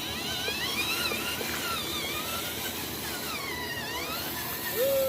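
Small electric motors of radio-controlled construction models whining, their pitch gliding up and down repeatedly as the models are driven.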